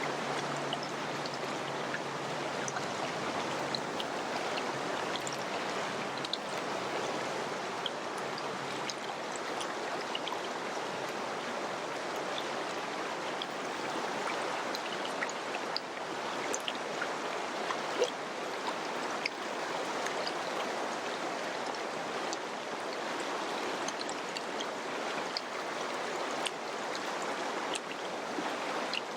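Mountain river running over rocks: a steady rush of water flecked with many small splashes and droplet ticks.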